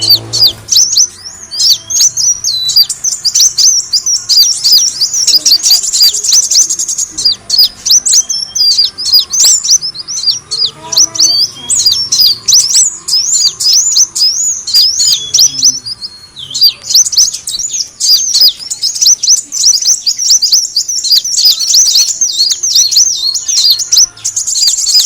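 Kolibri wulung sunbird giving rapid, high chirping calls in dense runs, the kind of call played as a lure to attract these birds. There is a brief lull about sixteen seconds in.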